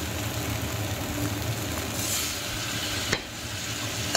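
Spice masala of onion, tomato and mustard paste sizzling in oil in a nonstick kadai while being sautéed, over a steady low hum. The sound breaks off briefly about three seconds in.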